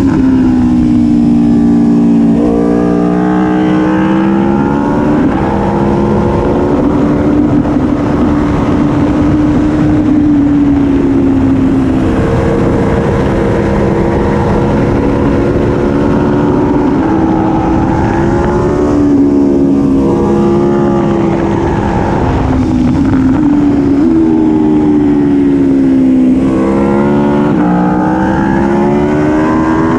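Aprilia Tuono V4 1100 Factory's V4 engine at speed on a race track, revs climbing and dropping repeatedly through gear changes and corners, with wind rushing past the bike.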